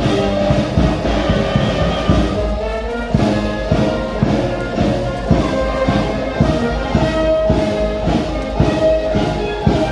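Brass band playing a march, with a steady drum beat about two times a second.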